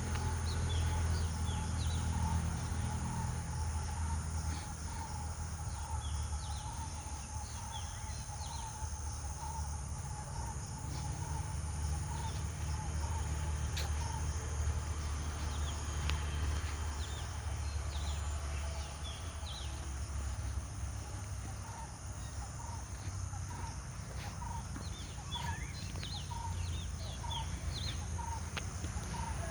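Birds calling outdoors: scattered short high chirps, with one bird repeating a short note about once a second. Underneath runs a steady low rumble, and a steady high hiss sits above.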